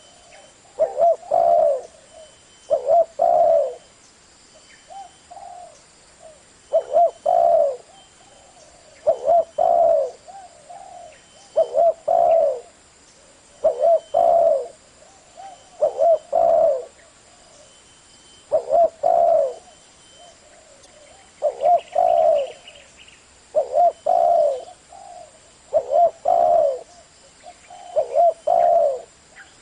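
A spotted dove cooing: a short phrase of several low coo notes, repeated steadily about every two seconds.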